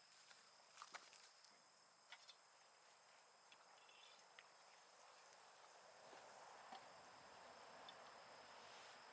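Faint, steady high-pitched chirring of insects at a campsite, with a few soft clicks early on and a low hiss that swells about six seconds in.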